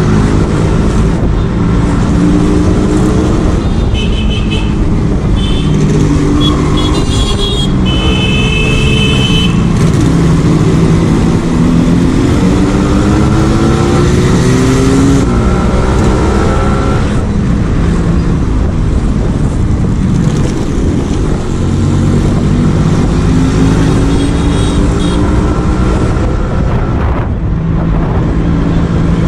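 Yamaha RX 135's single-cylinder two-stroke engine running under way, revving up through the gears and dropping back at each shift, several times over. Short horn beeps sound from about four to ten seconds in.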